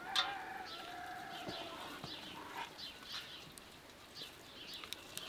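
Small birds chirping over and over in short, high, falling notes. A longer, drawn-out animal call sounds through the first second and a half.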